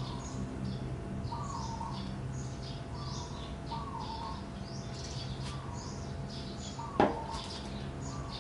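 Birds chirping, with many short high chirps and a lower call repeated about once a second. A single sharp click sounds about seven seconds in.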